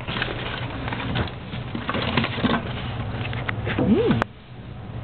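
Handling noise as marshmallow Peeps are arranged in a microwave oven: rustling and many light clicks over a low hum, then a sharp click about four seconds in as the microwave door shuts.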